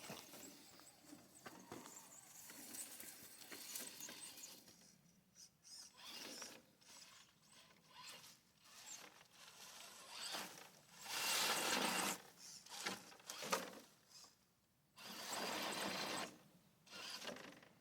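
Small electric RC rock crawler's motor and gear drivetrain running in short, irregular bursts of throttle as the truck works over rocks, with quiet pauses between bursts.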